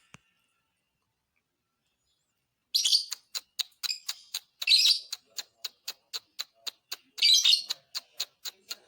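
Lovebird singing: after a silent start, a fast even run of sharp ticking notes, about four a second, broken by three louder chirping bursts.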